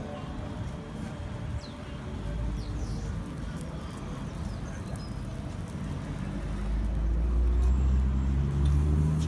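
Outdoor ambience: a low vehicle engine rumble that grows louder over the last few seconds, with a few short bird chirps.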